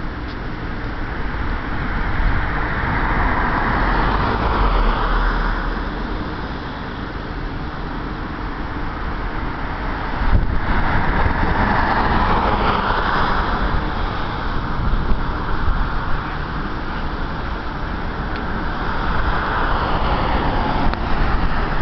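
Road traffic passing: three vehicles swell by one after another, each lasting a few seconds, over a steady low rumble.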